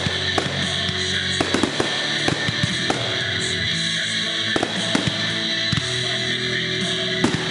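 Consumer fireworks going off in a scattering of sharp bangs and crackles, heard over steady guitar music.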